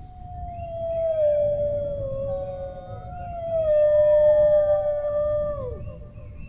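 Dogs howling: one long howl is joined by a second at a slightly different pitch about two seconds in. Both are held and overlap, then slide down in pitch and break off near the end.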